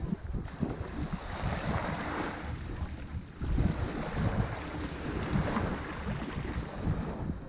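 Ocean waves breaking and washing up a shore, the surf swelling about a second and a half in and again midway, with wind buffeting the microphone as a low rumble throughout.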